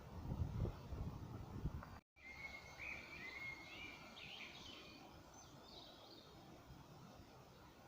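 Low rumbling noise for the first two seconds, then, after a brief cut, a small songbird singing a warbling phrase of about three seconds over faint outdoor background hiss.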